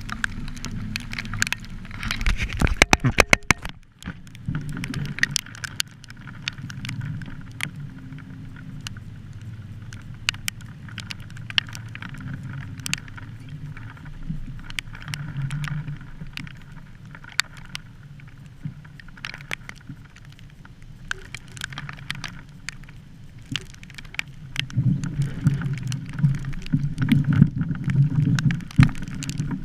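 Storm wind rumbling on the microphone, with many scattered sharp ticks and a dense run of loud clicks about two to three seconds in. The rumble grows stronger near the end.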